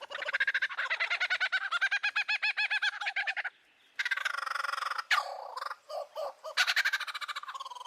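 A sequence of different bird songs. A fast trill of evenly repeated notes runs for about three and a half seconds, then after a short break come several other whistled calls and swooping notes, and near the end another rapid trill.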